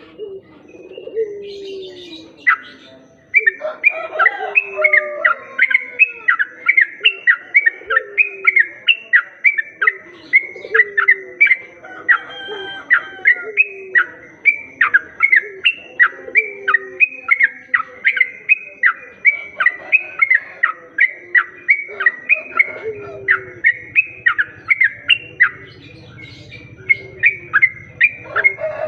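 Yellow-vented bulbul (trucuk) bird-lure recording: a fast, regular series of sharp falling call notes, two to three a second, starting a few seconds in. Underneath run slower, lower falling notes about every two seconds.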